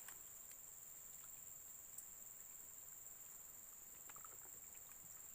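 Insects droning in a steady high-pitched chorus, with a few faint clicks.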